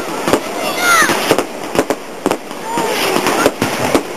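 Fireworks going off in quick, irregular succession: a dozen or so sharp bangs and cracks, with people's voices in the background.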